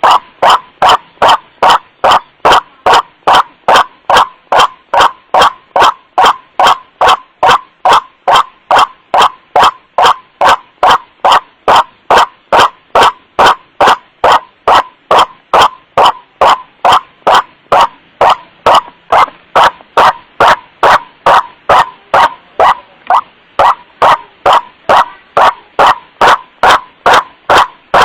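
White-breasted waterhen lure call: a loud, steady run of short, repeated 'wak-wak' calls, about two a second, without a break.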